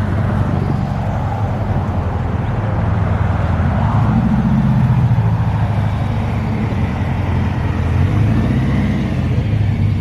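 A car engine running close by with a low, steady rumble that swells slightly a few seconds in.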